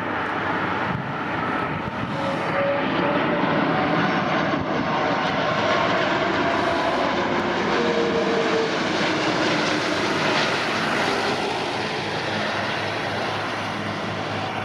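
Jet airliner engines roaring. The roar swells over the first few seconds, holds steady, then eases slightly near the end, with a few faint whining tones over it.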